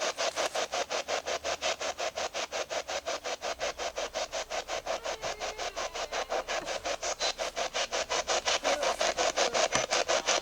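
Ghost-hunting spirit box sweeping through radio stations, a steady chop of static at about five or six pulses a second.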